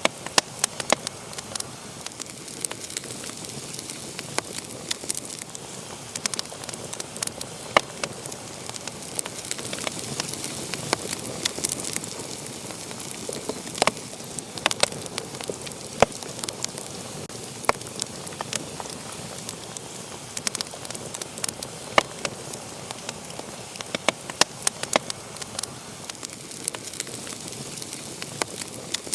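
Wood fire in a fireplace crackling, with sharp irregular pops over a steady hiss of burning.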